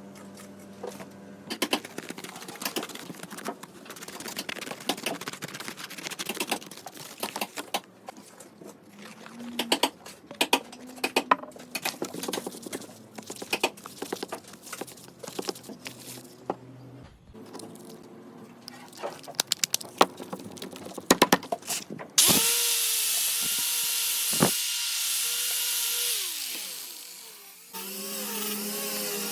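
Irregular clicks and knocks of hand work on wood for most of the time. Then an electric drill starts suddenly and runs with a steady whine for about five seconds before winding down, and starts again near the end, its pitch wavering.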